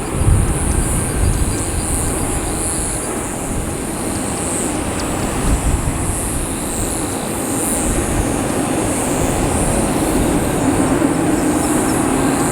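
Wind buffeting the microphone over the distant steady rumble of a jet airliner on approach, which grows a little louder over the last few seconds.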